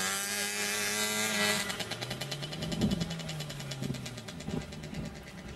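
Banger racing cars' engines revving hard as the cars pass on a grass track. One high engine note drops away about a second and a half in, then a lower engine note rises and falls.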